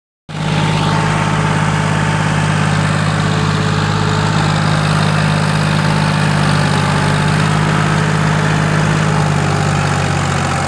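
John Deere 5036 tractor's diesel engine running steadily at an even speed.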